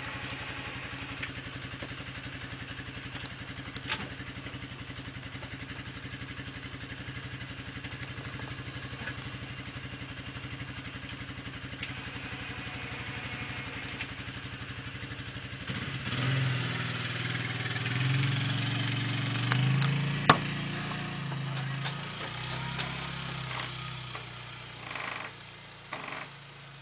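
Engine of a snow-plowing machine running steadily at idle, then from about 16 seconds in working louder and unevenly under load, with a sharp knock about 20 seconds in.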